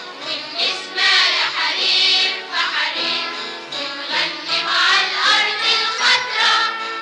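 A children's choir singing an Arabic song over musical accompaniment.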